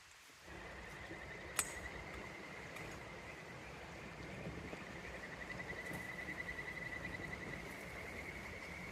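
River water running steadily, with a continuous high, rapidly pulsing trill over it that grows stronger in the second half. A single sharp click about one and a half seconds in.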